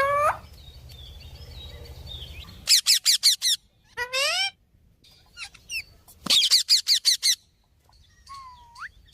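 A parrot calling: several bursts of quick, shrill repeated calls, and then near the end a single whistle that dips and rises.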